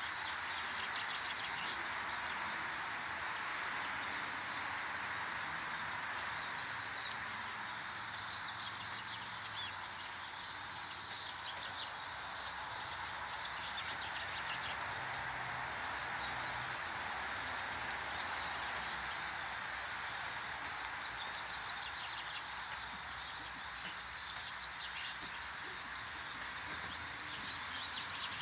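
Small garden birds at a bird table giving short, high chirps, a few scattered times, over a steady outdoor hiss.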